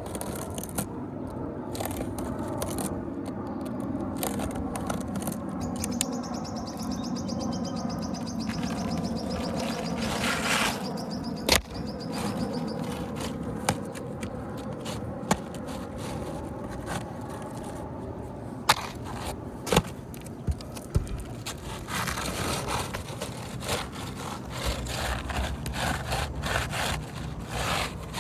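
Asphalt roofing shingles scraping and rustling as a replacement shingle is slid and worked into place under loosened courses, with a few sharp knocks, the loudest about 12 s, 19 s and 20 s in.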